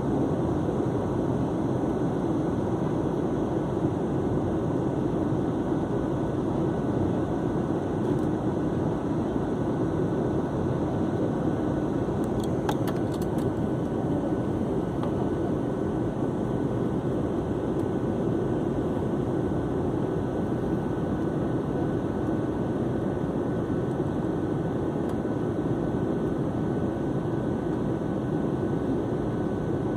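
Steady cabin noise of an airliner in flight: an even, unchanging rush of engine and airflow noise, with a few faint clicks about halfway through.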